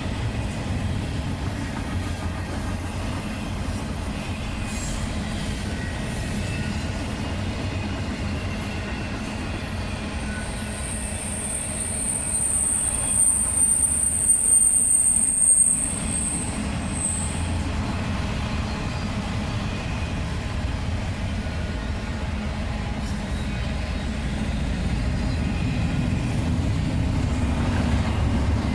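Freight train cars rolling past with a steady low rumble, their wheels squealing high on the rails, faintly in the first few seconds and louder from about ten seconds in for several seconds.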